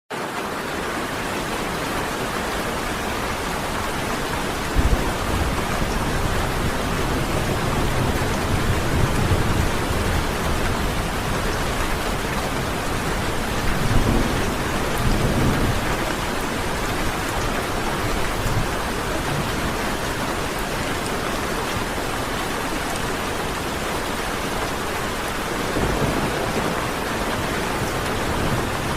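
Heavy rain falling steadily, with several low rolls of thunder swelling and fading through it.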